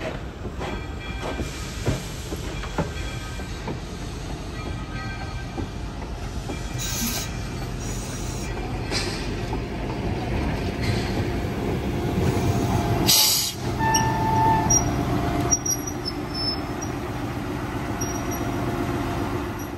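Railway passenger coaches rolling past on steel wheels: a steady rumble with clacks and thin, high wheel squeals. A short loud burst of noise comes about thirteen seconds in.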